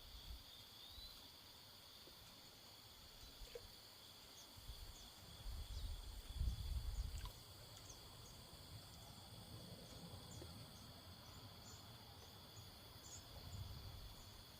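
A steady trilling chorus of crickets and other insects. A low rumble of wind on the microphone comes in about halfway through for a couple of seconds, and again briefly near the end.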